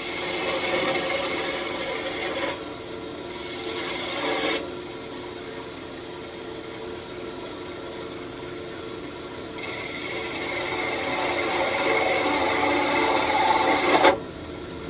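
Wood lathe running while a turning tool cuts the spinning walnut in several passes. Near the end there is a sudden loud catch, after which the cutting stops: a piece of the turned detail has broken off.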